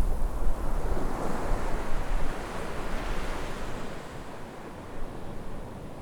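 Sea waves breaking on a shore: a wave surges in about a second in, and its wash fades away over the following seconds.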